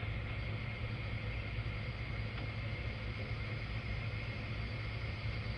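Kubota M62 tractor's diesel engine idling steadily, a constant low hum.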